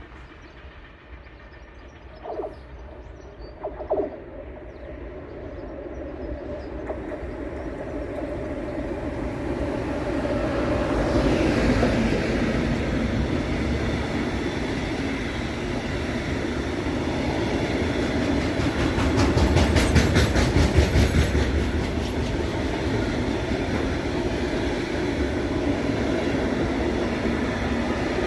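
Freight train approaching and passing at speed: a rumble of wheels and wagons that builds over several seconds and stays loud, with rapid rhythmic clicking of wheelsets over the rail joints at its loudest. Two short tones sound in the first few seconds.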